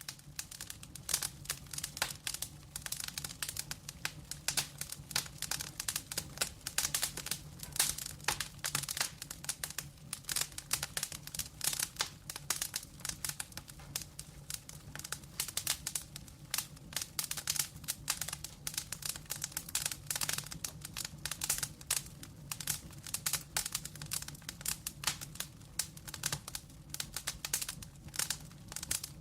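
Wood fire burning in a fireplace, crackling with dense, irregular pops and snaps over a low steady rumble of flame.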